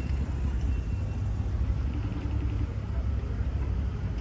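Car moving along a road: a steady low rumble of engine and road noise, heard from inside the cabin.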